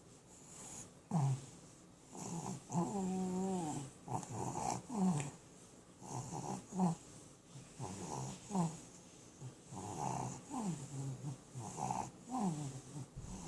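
A sleeping dog snoring: short snores that fall in pitch, one or two a second, with one longer wavering snore about three seconds in.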